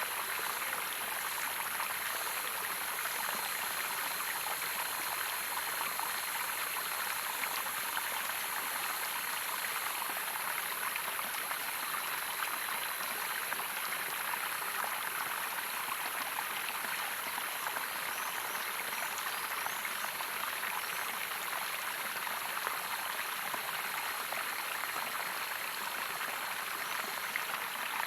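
Steady running water of a small waterfall, an even splashing rush with no breaks.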